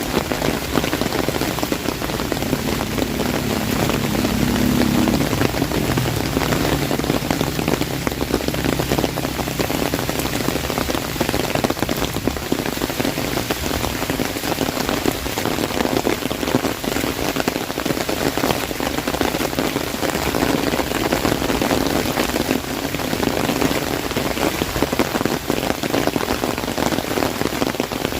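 Heavy rain pattering steadily on an umbrella overhead: a dense, even patter of many drops hitting the fabric, with no break.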